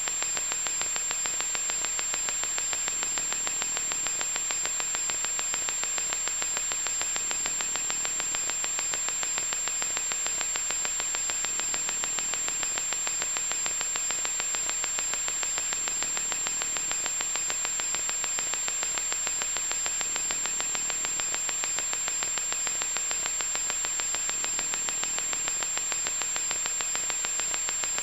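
Loud, unvarying static hiss with a fine rapid crackle, strongest in the upper-middle pitches, with a thin, steady high-pitched tone running through it.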